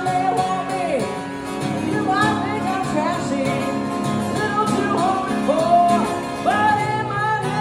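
Live acoustic music: an acoustic guitar strumming steadily under a sung melody line.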